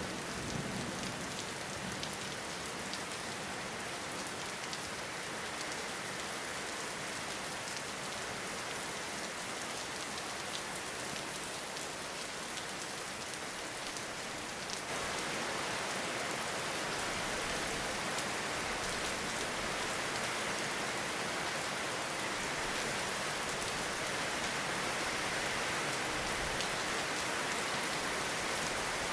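Steady rainfall, an even hiss of drops with a few sharper single drops. About halfway through it grows louder and heavier.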